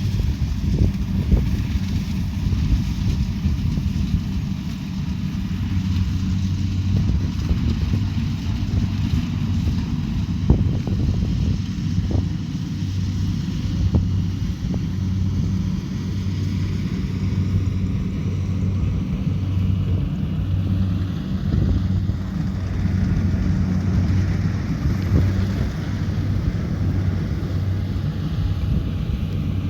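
Kubota DC70 Pro combine harvester's diesel engine and machinery running steadily while harvesting rice: a constant low drone with a slight regular pulsing and a few brief clicks.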